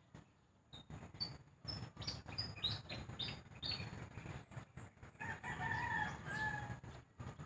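A small bird chirps in a quick run of short high notes, then a rooster crows once, about five seconds in.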